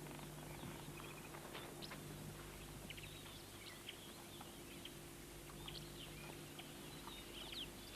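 Faint outdoor ambience of scattered short, high bird chirps, over a quiet hiss and a steady low hum.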